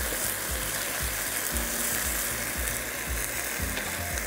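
Onions and ground spices sizzling steadily in hot oil in a wok, with a wooden spatula stirring them.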